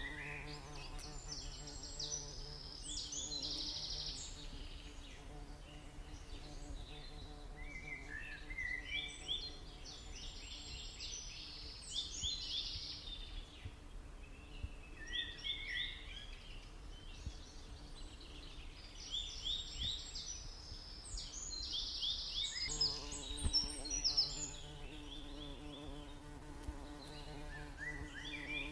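Forest birds singing, with repeated phrases of quick high notes every few seconds. Under them, the steady buzzing hum of stingless bees flying near the microphone is heard at the start and comes back near the end.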